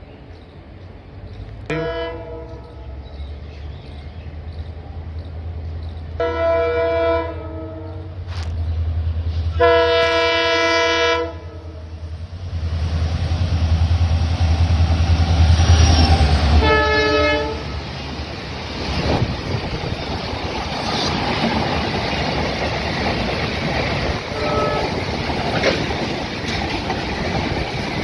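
WDG-4 diesel-electric freight locomotive, with a 16-cylinder two-stroke EMD engine, approaching and passing at speed. It sounds its horn four times, the third blast the longest, and its engine rumbles louder as it nears, loudest as it goes by. Then a long rake of empty freight wagons rolls past with a steady clatter of wheels on the rails.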